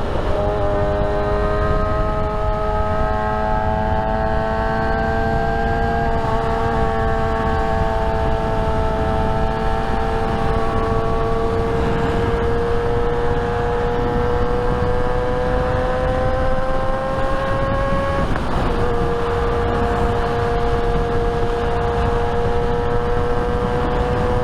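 Motorcycle engine running at cruising speed, its note climbing slowly, then dropping suddenly about eighteen seconds in and holding steady after. Heavy wind noise buffets the rider's microphone throughout.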